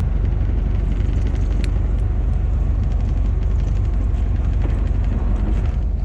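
Fishing boat's engine running steadily, an even low rumble with a rushing hiss over it.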